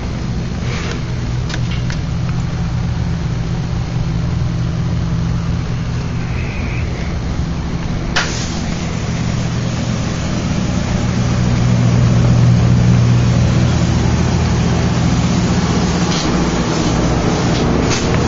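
Four-cylinder car engine idling steadily, with one sharp click about eight seconds in.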